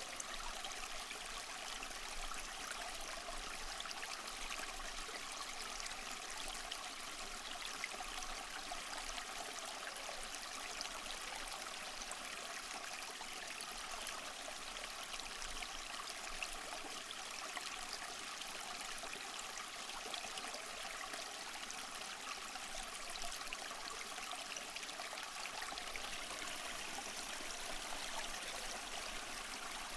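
Small waterfall splashing and trickling steadily: a continuous, even rush of falling water, mostly in the middle and high range with little deep rumble.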